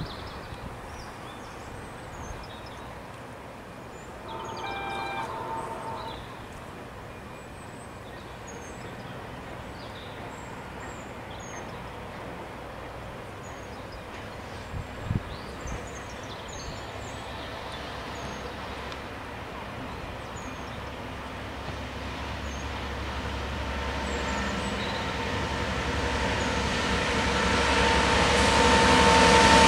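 GB Railfreight Class 66 diesel locomotive, with its two-stroke EMD V12 engine, hauling a loaded engineering train towards the listener. The engine and wheel noise grow steadily louder through the second half. A distant horn sounds for about two seconds near the start, and small birds chirp faintly throughout.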